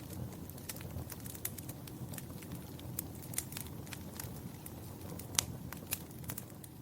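Wood fire crackling in a fireplace: irregular sharp pops and snaps over a low rumble of burning, with one louder pop about five seconds in.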